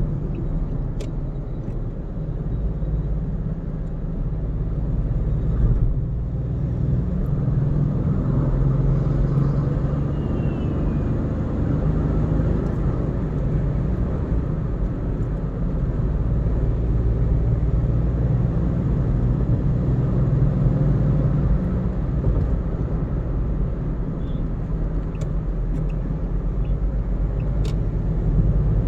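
A car driving at steady speed on an expressway: a continuous low rumble of road and engine noise, with a couple of faint clicks, one about a second in and one near the end.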